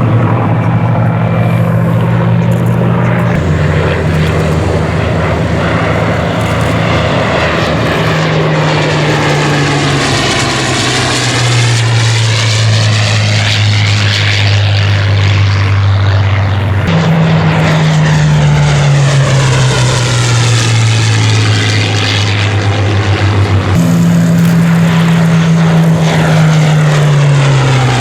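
Rolls-Royce Merlin piston engines of Second World War fighters, Spitfires and a Sea Hurricane, running loud on low flypasts. The engine note drops in pitch as each aircraft passes, several times.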